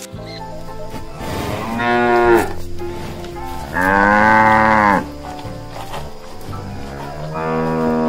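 Cattle mooing: three long moos a few seconds apart, the middle one the loudest and longest.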